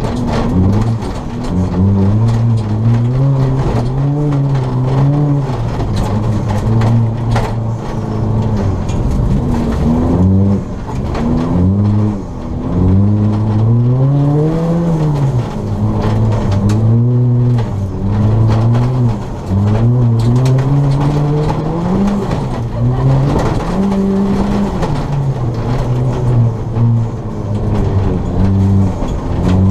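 Ford Fiesta ST rally car's turbocharged four-cylinder engine revving hard and dropping back again and again, climbing through the revs and falling at each shift or lift during a rallycross run.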